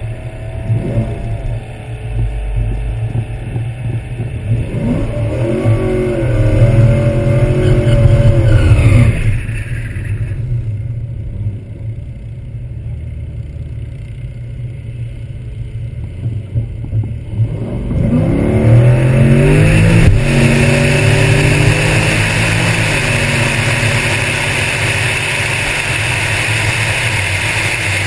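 Drag car's LS-based V8 heard from a hood-mounted camera. It idles and is revved hard for several seconds, then idles again at the starting line. About 18 seconds in it launches at full throttle, the revs climbing with a gear change about two seconds later, and it stays loud before easing off slightly near the end.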